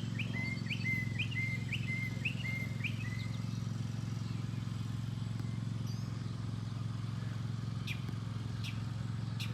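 Steady low rumble of a Boeing 777-200 jet airliner passing overhead. A songbird repeats a short rising chirp about twice a second for the first three seconds, and a few sharp high chirps come near the end.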